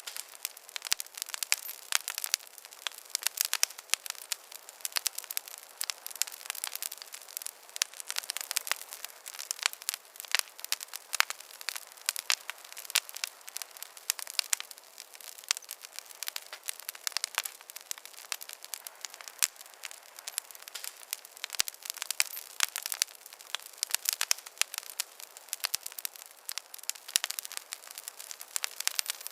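Campfire crackling: a dense, irregular run of pops and snaps from burning wood, several a second, with no low rumble beneath it.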